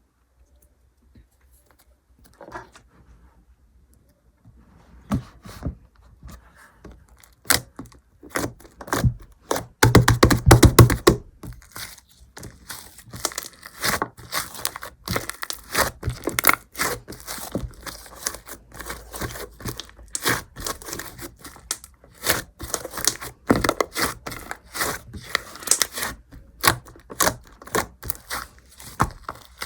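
Slime being kneaded and stretched by hand, making irregular crackling, clicking and tearing sounds. They start faintly a few seconds in and come loudest about ten seconds in.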